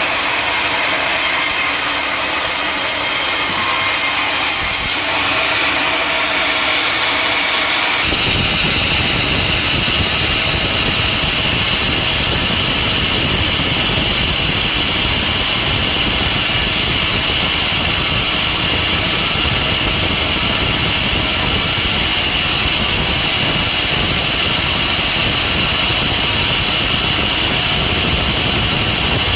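Sawmill machinery running steadily with a loud, even mechanical noise. About eight seconds in, a deeper low rumble joins and holds.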